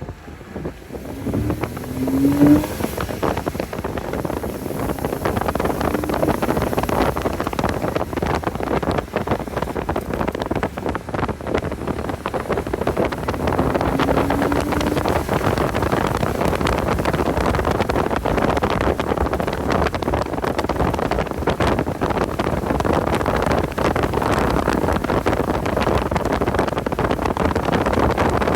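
Porsche 986 Boxster's flat-six engine running under load at speed, mixed with heavy wind buffeting on the onboard microphone; the engine pitch rises briefly about two seconds in and again around halfway.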